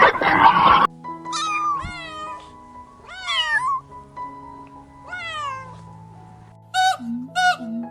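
Domestic cat meowing four times, each meow falling in pitch, over background music with held notes. Near the end a run of short, quick calls starts, about two a second.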